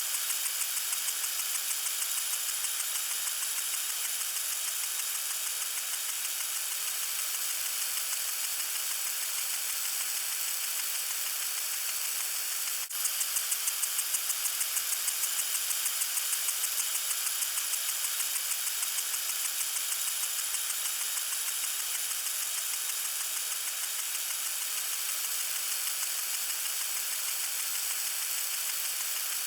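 Water sprinkler spraying: a steady high hiss with a fast, even flutter and a brief dip about 13 seconds in.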